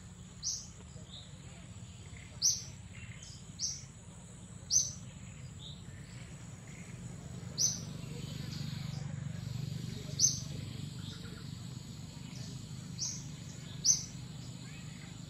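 A bird giving short, sharp high chirps, one every one to three seconds, over a steady thin high-pitched whine and a low rumble of forest background.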